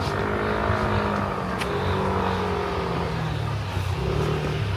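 A motor vehicle's engine running with a steady hum whose pitch drifts slightly lower.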